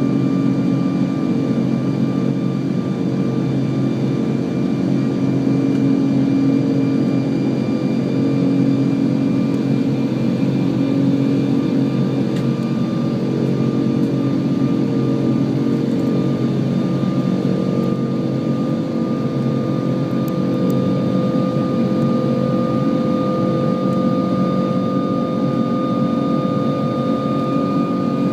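Rolls-Royce Trent 500 turbofans of an Airbus A340-600 heard from inside the cabin: a steady loud rush with steady whining tones above it. One tone grows stronger in the second half.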